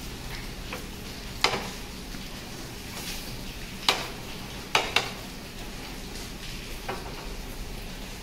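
Egg-dipped bread rolls shallow-frying in coconut oil in a flat pan: a steady sizzle, with a few short sharp clicks.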